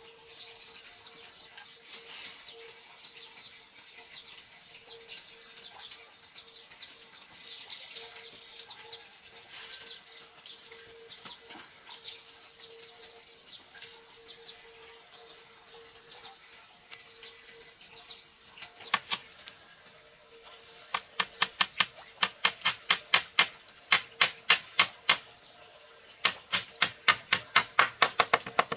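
Birds calling with short, falling chirps over a steady, high insect drone. About two-thirds of the way in, a run of rapid, sharp knocks starts, several a second in quick groups, much louder than the birds, and stops just before the end.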